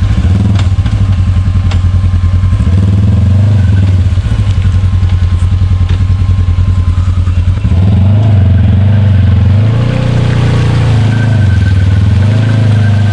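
Side-by-side UTV engine running loud under load, a steady drone that from about eight seconds in revs up and down several times as the machine works through deep mud.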